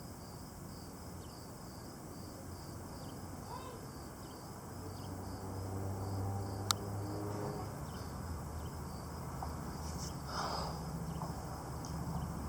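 Faint insect chirping, likely crickets, repeating evenly and high-pitched, over a low steady rumble that swells slightly partway through. A single sharp click comes a little past halfway.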